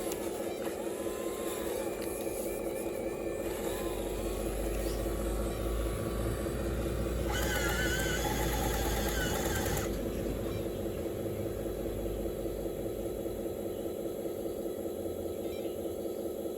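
Radio-controlled Cat excavator's hydraulic pump and motors running with a steady whine, with a deeper rumble swelling about three seconds in and a brighter hissing layer for a couple of seconds near the middle as it works.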